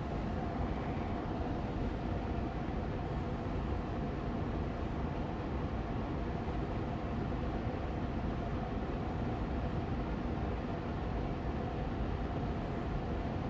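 Austin Air Allergy Machine air purifier fan running steadily on medium speed: an even whooshing hum of moving air with a faint steady tone.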